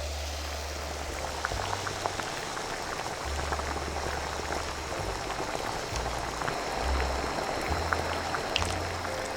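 A pot of liquid at a boil for instant udon, a steady bubbling hiss scattered with many small pops, over low background music.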